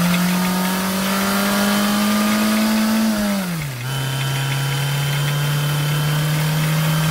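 Classic Mini's four-cylinder engine pulling along, its pitch climbing slowly, then dropping sharply a little past three seconds in as it changes up a gear, then running steady at lower revs.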